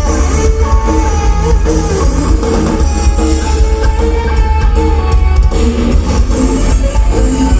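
Loud live rock band music: guitar with held melody notes and drum kit over a heavy, booming bass.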